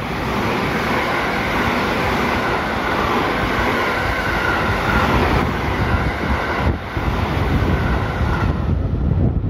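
JR West electric multiple-unit train passing close by along a station track: a loud, steady rumble of wheels on rail and running gear. It builds in the first moment, holds, and dips briefly as a gap between cars goes by.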